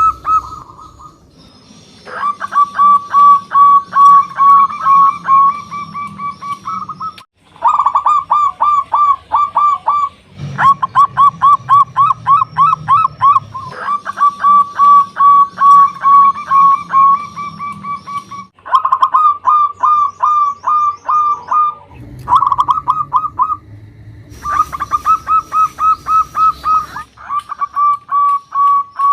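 Zebra dove (local perkutut) singing: fast runs of staccato coos held at about one pitch, in phrases several seconds long that break off suddenly, with faint high chirps above.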